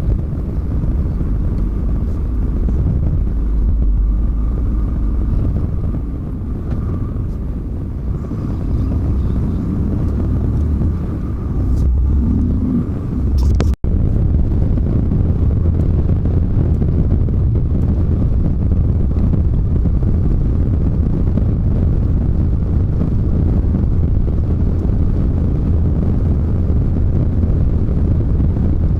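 Semi-truck on the move: a steady low engine and road rumble. It drops out for an instant a little before halfway through.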